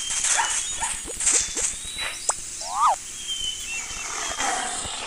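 Animal calls: several short, quick chirps and two rapid up-and-down squeaks, over a steady hiss.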